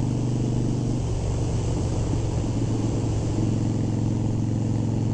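Harley-Davidson Sportster 1200 Custom's air-cooled V-twin engine running on the road at a steady speed, its upper note thinning about a second in and filling back out about three and a half seconds in, over steady rushing noise.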